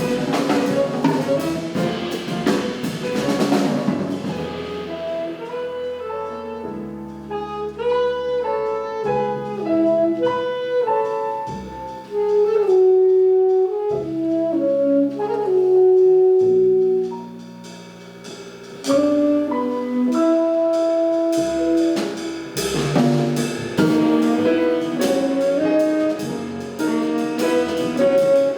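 Live jazz quartet of saxophone, piano, double bass and drums playing. The cymbals and drums drop back after about four seconds into a sparser passage of held notes and chords, and the full band with cymbals comes back in over the last few seconds.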